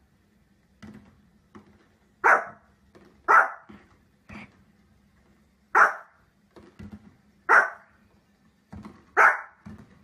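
Small fluffy dog barking in sharp, separate barks: five loud ones spaced a second or two apart, with softer, shorter barks and yips between them.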